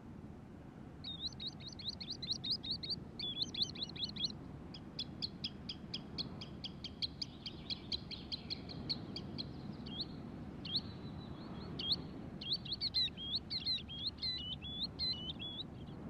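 Bird calling in quick series of high, sharp chirps, some runs so fast they run together like a trill, with short pauses about four and ten seconds in, over a steady low background rumble.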